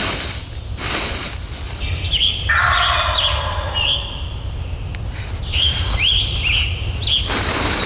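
A wild turkey gobbler gobbles once, a rattling call lasting about a second and a half starting about two and a half seconds in, while small birds chirp repeatedly.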